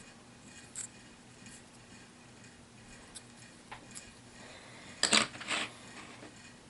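Small plastic clicks and knocks of a HeroClix miniature being handled: a few faint ticks, then a short clatter about five seconds in.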